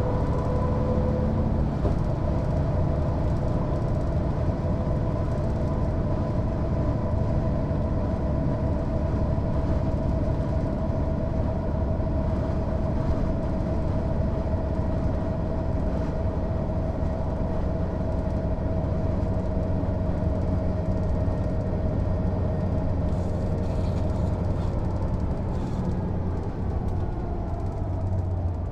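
Mercedes-Benz O 407 city bus under way, its six-cylinder diesel running with a steady drone and a steady whine. Near the end the whine falls in pitch as the bus slows.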